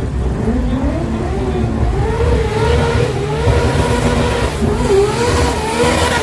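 A car engine revving. Its pitch climbs over the first two seconds, then rises and falls repeatedly, over a heavy low rumble.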